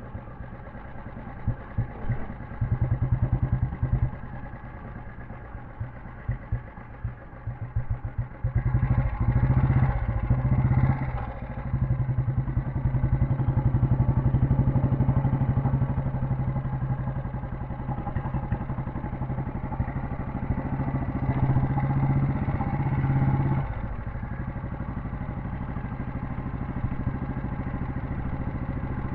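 Royal Enfield Bullet 350's single-cylinder cast-iron engine running. It idles with quick throttle blips, then runs louder at higher revs from about a third of the way in, and settles back to a steady, lower beat near the end.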